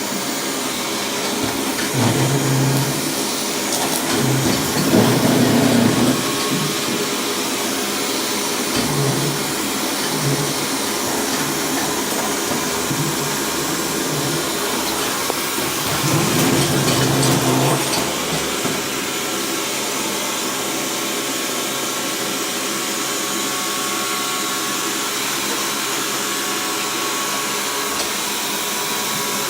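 Xiaomi robot vacuum running with a steady suction noise. A deeper hum swells and fades several times in the first eighteen seconds or so, then the steady running carries on alone.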